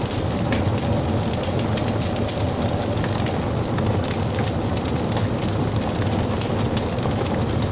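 Wood fire crackling, with many small sharp pops over a steady low rumble of burning.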